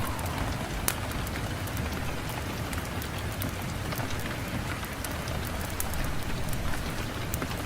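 Steady rain falling, an even hiss dotted with many sharp little ticks.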